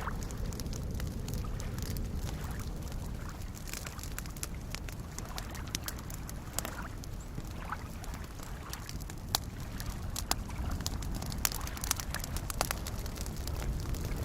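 Campfire crackling with scattered sharp pops, more frequent in the second half, over the low steady wash of soft lake waves lapping.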